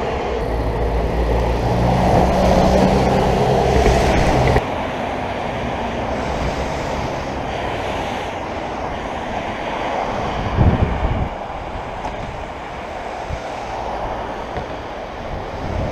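Wind rushing over the microphone of a moving bicycle, with a motor vehicle's engine humming low for the first four or so seconds before cutting off sharply. A short knock about ten seconds in.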